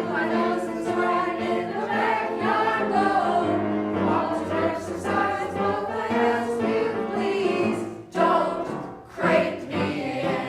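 A choir singing a song with long held notes, the voices breaking off briefly about eight seconds in and again shortly after.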